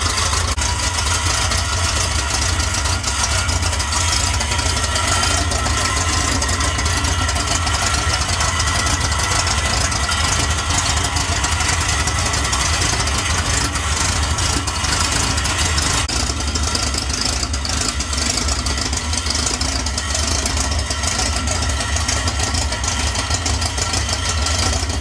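Chevrolet 250 inline-six engine, with a 500-lift cam, four-barrel carburettor and headers, idling steadily.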